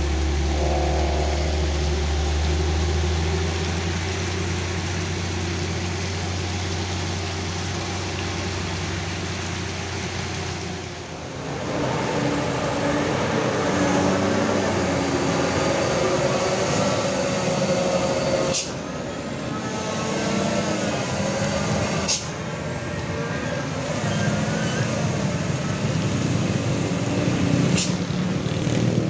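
Heavy trucks' diesel engines labouring in low gear up a steep climb, with a steady hiss of rain and wet road behind. The sound changes abruptly several times as one passing truck gives way to another.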